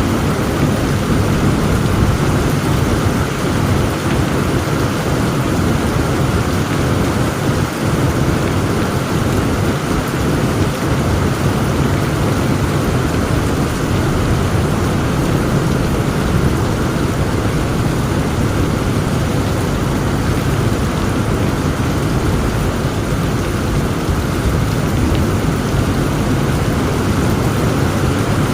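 Heavy rain pouring steadily, with a continuous low rumble of thunder beneath it.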